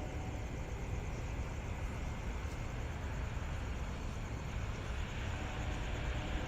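Steady low outdoor rumble: wind buffeting the microphone over distant road traffic.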